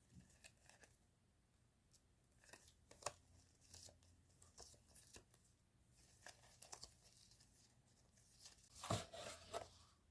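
Faint rustling and tearing of stationery packaging being handled and opened by hand, in short scattered crackles, with a louder rip about nine seconds in.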